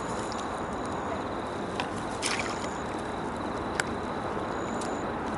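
Steady hiss of rain and water with light sloshing, and a few sharp clicks about two and four seconds in, as a yabby line is drawn in from the dam. A thin high chirp comes and goes.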